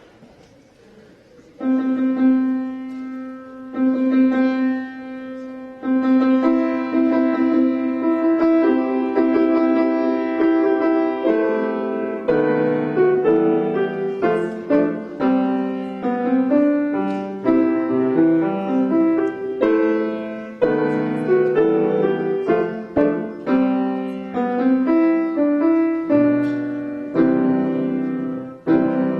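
Solo piano playing a familiar tune: a few slow single notes about every two seconds from about a second and a half in, then a faster melody over a bass line from about twelve seconds in.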